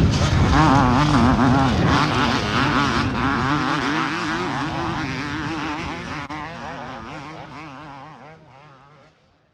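Motocross motorcycle engines racing, their pitch rising and falling over and over as the riders work the throttle, fading out to silence near the end.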